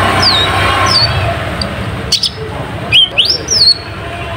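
Kolibri ninja sunbird calling: a series of thin, high-pitched chirps, some sliding down and some sweeping up, the loudest pair about three seconds in.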